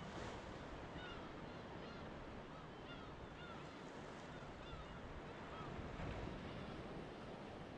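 Ocean surf washing steadily, with birds giving a run of short, repeated calls from about a second in, fading out near the end.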